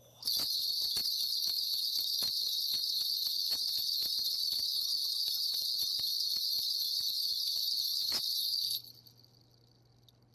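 A Korean shaman's cluster of brass ritual bells (mugu bangul) is shaken rapidly and without a break. It gives a dense, high, shimmering jingle with many sharp strikes. It starts suddenly and stops abruptly about nine seconds in. The bells are rung to call on the spirits during a divination.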